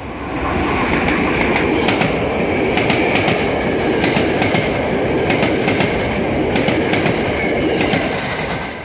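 SEPTA Regional Rail electric multiple-unit train passing close at speed: a steady rush of wheel-on-rail noise with repeated clicks of the wheels over rail joints and a faint high whine. It builds up quickly at the start and dies away near the end.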